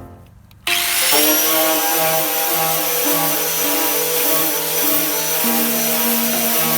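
A power tool starts up suddenly less than a second in and runs steadily: a loud hiss with a high whine over it.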